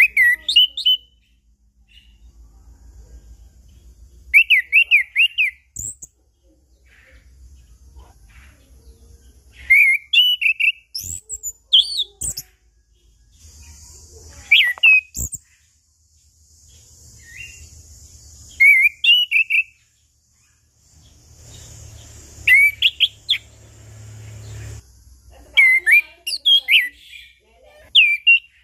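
Chestnut-capped thrush (anis kembang) singing: short bursts of quick, clear whistled notes, repeated every few seconds with pauses between.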